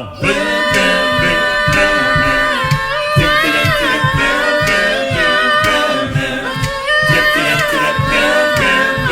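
Male vocal group singing doo-wop a cappella: close harmonies on held chords that slide from one to the next, with a bass voice pulsing underneath about twice a second.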